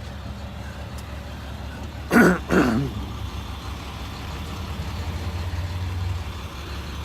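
A motor vehicle engine running steadily, a low hum, with a brief voice about two seconds in.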